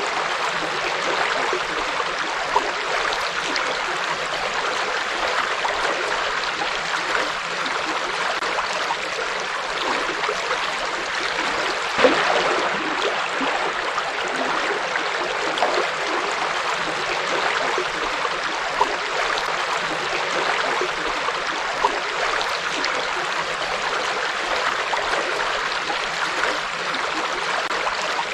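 Forest river flowing steadily over rocks, an even rushing and babbling of water with a few brief louder splashes.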